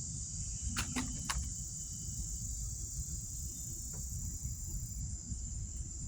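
Steady high-pitched insect chorus, crickets or cicadas, running without a break over a low rumble. There are three sharp clicks about a second in and a fainter one around four seconds.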